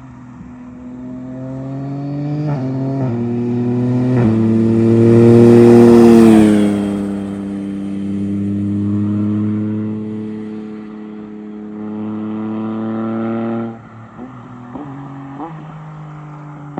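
Yamaha Tracer 9 GT+ inline-three engine through a full Akrapovic race exhaust with the baffle out, accelerating hard through several quick upshifts. It is loudest as it passes about six seconds in, where the pitch bends down. It then holds a steady pull, the throttle shuts suddenly near the end, and a couple of short revs follow as it slows.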